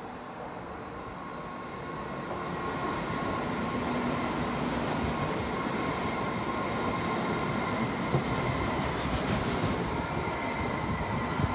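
Red electric S-Bahn multiple-unit train running past on the track below. The wheel-on-rail rumble builds over the first few seconds and then holds steady, with a thin steady whine above it and a few brief clicks near the end.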